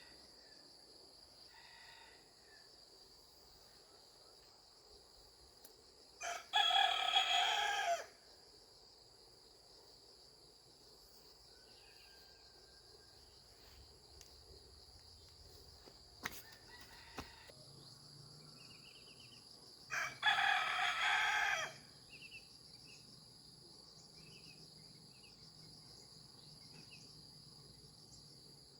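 A rooster crows twice, each crow under two seconds long, the two crows about fourteen seconds apart. A steady high insect drone runs underneath.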